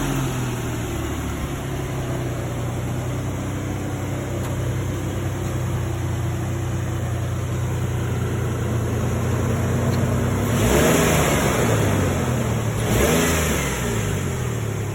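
Ford Explorer Sport Trac's 4.0-litre V6 engine idling steadily just after a start, then revved twice near the end, each time rising in pitch and falling back to idle.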